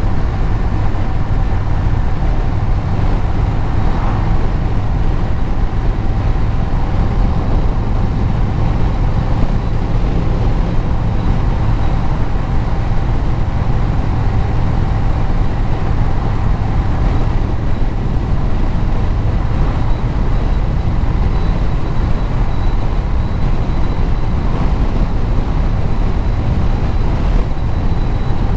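Vehicle engine running steadily under way, with road noise; a constant low rumble with no revving or gear changes.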